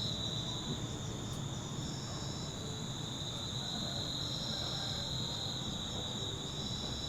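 A steady, high-pitched insect chorus of crickets or similar singing insects, with a second, higher insect trilling in spells of about a second every second or two over a low background rumble.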